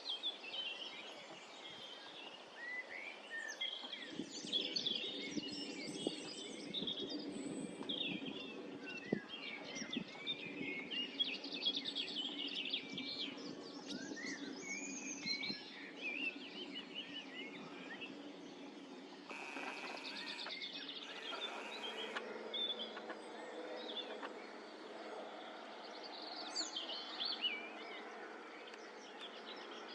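Several songbirds chirping and singing, with many short, quick calls throughout. Beneath them is a steady low rumble that begins about four seconds in.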